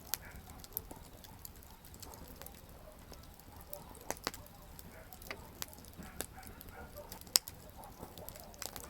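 Wood campfire crackling, with irregular sharp pops over a low steady rumble of the flames; the loudest pop comes about seven seconds in.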